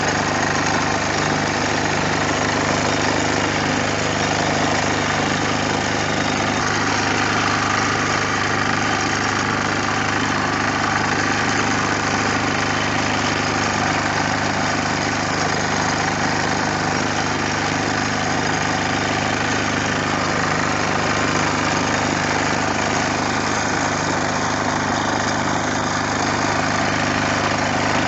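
Bertolini 402 diesel engine running at a steady speed, its pitch and loudness unchanging throughout.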